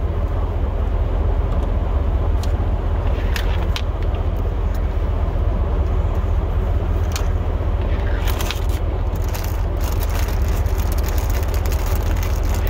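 Pickup truck running steadily, heard from inside the cab as an even low rumble, with a few light clicks or knocks scattered through it.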